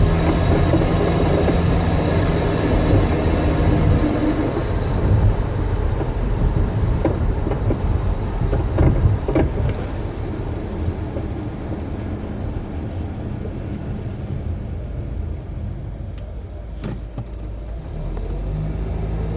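2008 Acura RDX driving over bumps: steady road and running noise with several short, sharp knocks, a cluster around the middle and one or two near the end. The knocks come from the suspension, which the owner thinks is in the front end.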